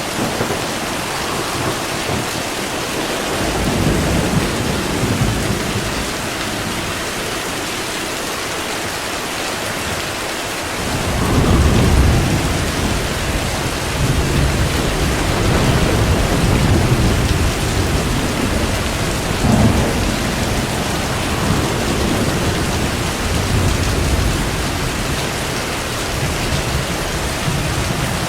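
Steady heavy rain with thunder rumbling: a low roll a few seconds in, then a louder clap of thunder about eleven seconds in that rumbles on and off through most of the rest.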